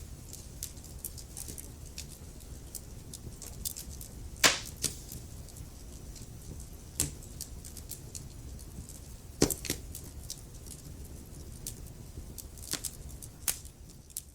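Wood fire in a fireplace crackling, with a low steady rumble of the flames and irregular sharp pops and snaps. The loudest pops come about four and a half and nine and a half seconds in.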